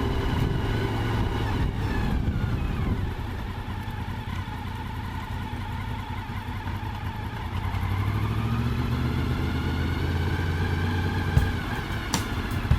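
Motorcycle engine running, its pitch falling as it slows a couple of seconds in, then rising again as it accelerates in the second half, with a few sharp clicks near the end.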